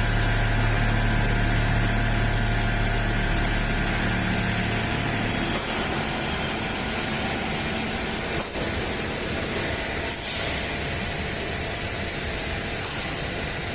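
SoftCut CNC foam cutting machine running with a steady mechanical hum. Its low hum drops away about five and a half seconds in, and a steady high whine comes in later. Four short hisses are heard along the way.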